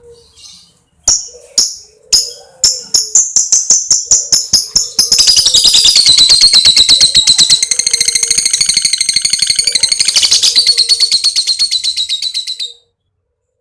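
Lovebird's long 'ngekek' chatter. It starts as a few separate sharp, high calls about half a second apart, speeds up into a fast, continuous shrill rattle, and stops abruptly near the end.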